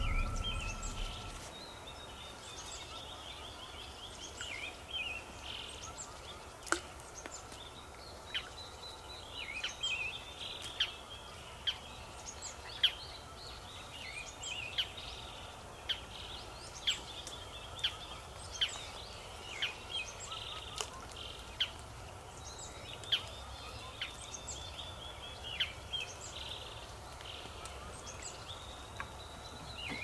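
Wild birds singing: a sharp, high call repeated about once a second, with trilling near the start and again near the end.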